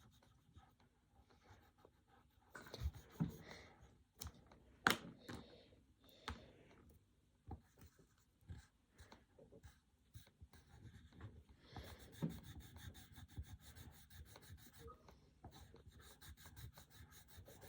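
Coloured pencil scratching on paper, with scattered taps and knocks on the table, then a fast run of quick back-and-forth strokes as an area is coloured in, from about twelve seconds in.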